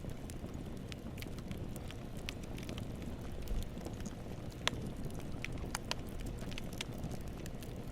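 Campfire burning: a steady low rumble of flames with frequent sharp crackles and pops of burning wood, one louder pop a little past halfway.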